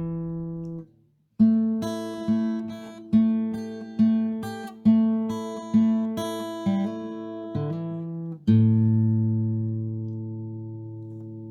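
Acoustic guitar music: a run of plucked notes, each ringing and fading, after a brief pause about a second in, ending on a held chord that slowly fades out.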